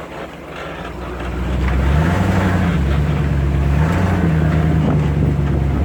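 Two-wheel-drive Chevy's engine revving up about a second in, then held at high revs under load as it drives through a muddy hole, its pitch stepping up and down a few times.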